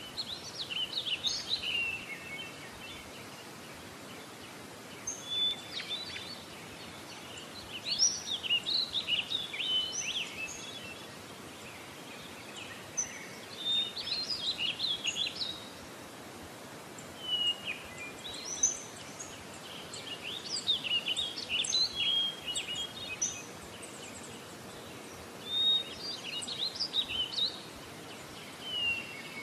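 Songbirds singing: bursts of quick chirps and trills every few seconds over a steady background hiss.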